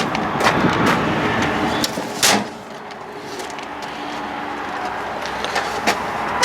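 Clicks and knocks from the metal compartment doors and latches of a utility bucket truck's body being handled, the loudest knock a little over two seconds in, over a steady low hum.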